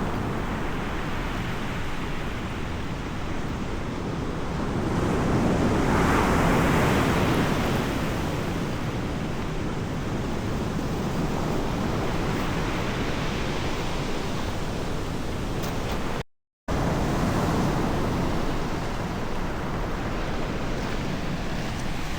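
Ocean surf washing and breaking, with wind: a continuous rushing noise that swells about six seconds in. It cuts out for a split second after the middle.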